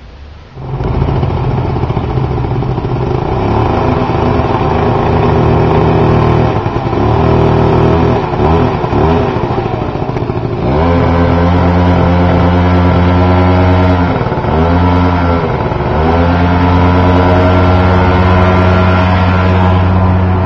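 Aprilia SR50 scooter's two-stroke single-cylinder engine running through a Leo Vince ZX aftermarket exhaust. It comes in about a second in and holds mostly steady revs, with the engine note dipping and picking back up a few times.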